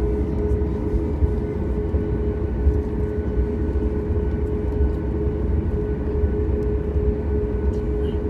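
Cabin noise of a Boeing 737 MAX taxiing, with its engines at idle: a steady low rumble with a steady mid-pitched hum running through it.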